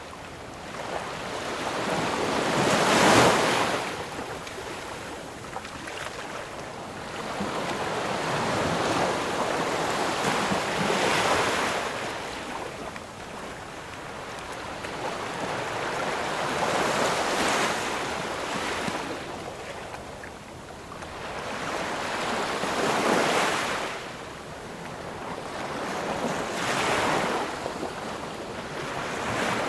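Ocean surf: waves breaking on the shore one after another, each swelling to a crash and washing back, about every five to six seconds.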